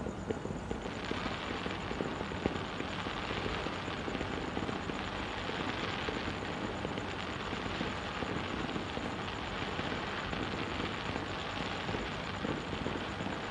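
Fireworks going off in rapid succession, a dense continuous crackle of small pops with one sharper pop about two and a half seconds in.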